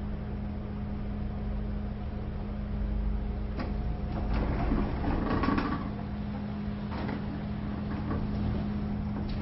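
Automatic sliding door running under a steady low hum. Its mechanism gives a click a little after three seconds in, a louder stretch of rattling and clicking between about four and six seconds, then two more single clicks near the end.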